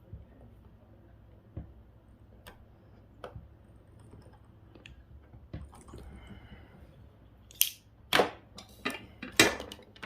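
Hand tool working at a GPS unit's electronics to free a glued-on part: scattered light clicks, then a run of several loud, sharp snaps near the end.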